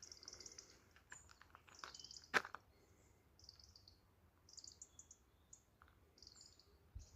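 Faint, high chirping of small birds in short repeated clusters, with a sharp click about two and a half seconds in.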